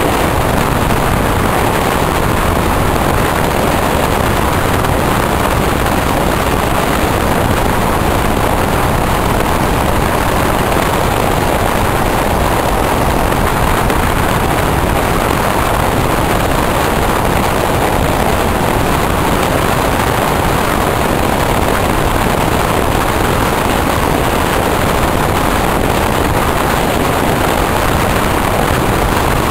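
Passenger train running at speed: a steady, loud rush of wheels on rail and passing air, heard from an open window at the side of the train.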